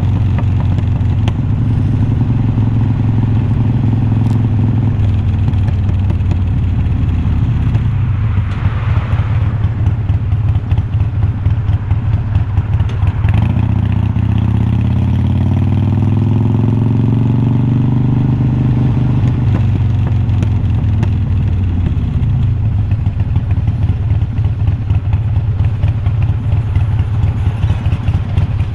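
Exhaust of a 2020 Harley-Davidson Iron 1200's air-cooled V-twin through unbranded slip-on mufflers that sound like glass packs, under way at a steady pace. About halfway through, the engine note rises steadily for several seconds as the bike accelerates, then drops back as the throttle closes.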